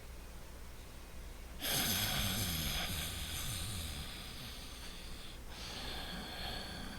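A person breathing loudly and deliberately through the nose as a relaxation exercise. After a quiet start, a long noisy breath with a low rasp in it begins about one and a half seconds in, and a softer second breath follows after a brief break near the end.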